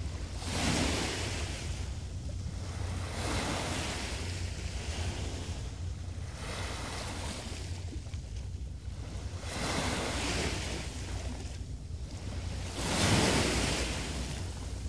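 Small waves breaking and washing up a beach one after another, a rushing swell every couple of seconds, the biggest near the end, over a low wind rumble on the microphone.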